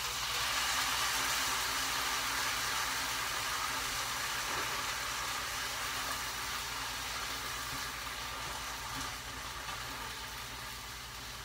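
Canned diced tomatoes sizzling as they hit hot olive oil in a skillet with onions, green peppers and garlic, strongest as they go in and slowly dying down.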